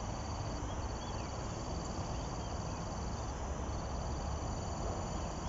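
An insect trilling steadily at a high pitch in a fine, even pulse, breaking off briefly about three and a half seconds in, over a low outdoor rumble.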